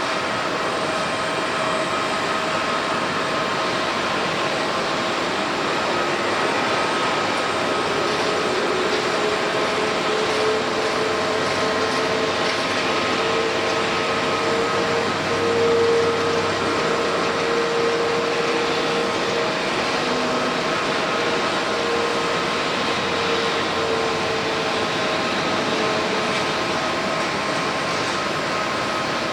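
Jet airliner engines running with a steady whine over a constant rush of noise; a lower droning tone swells in about a third of the way through, is loudest around the middle, and fades away before the end as the aircraft passes.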